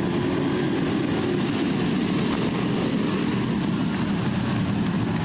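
Several Harley-Davidson V-twin police motorcycles running together as the team rides its formation, a steady, unbroken engine sound.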